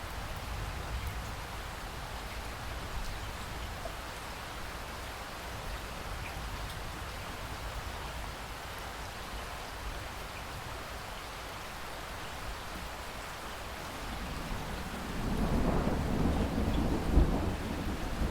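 Steady rain falling, then a low rumble of thunder that builds from about fifteen seconds in and peaks near the end.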